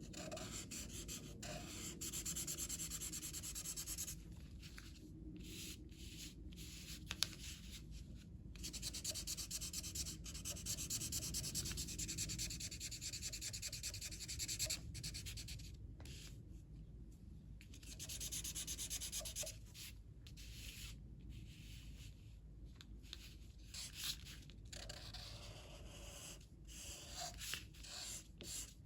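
Colouring tool shading across paper in continuous rubbing strokes, with short pauses now and then.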